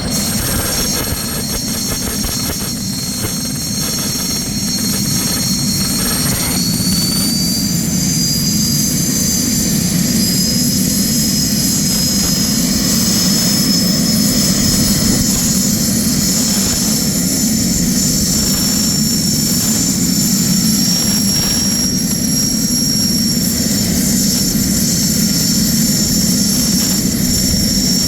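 Turbine of a homemade single-engine helicopter, a GTD-350 turboshaft, running with a high whine over a steady low rumble. The whine rises in pitch about seven seconds in and then holds steady.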